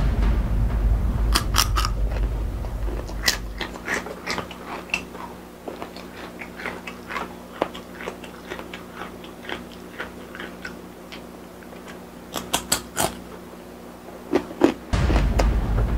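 Close-miked crunchy chewing: a crisp rolled Blue Takis chip bitten and chewed, with many sharp crackling crunches. The crunching comes thick at first, thins to rapid light crackles, and grows loud again near the end, over a low rumble at the start and again near the end.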